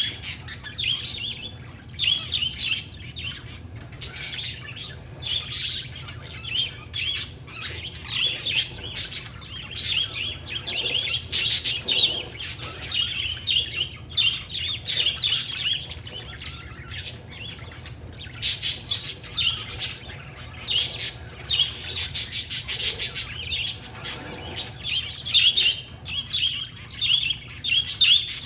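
Parakeets and zebra finches chirping, a dense run of short overlapping calls with no pause, over a low steady hum.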